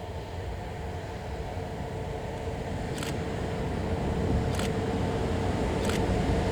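KiHa 110 series diesel railcar running, a steady rumble and engine drone growing louder, with sharp wheel clicks over rail joints about three, four and a half, and six seconds in.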